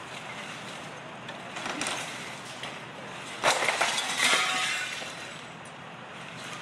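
Broken glass clattering and clinking, in two bursts about three and a half and four seconds in, over a steady background hum.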